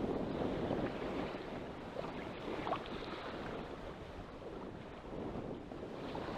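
Wind buffeting the microphone over choppy sea waves sloshing around a small boat.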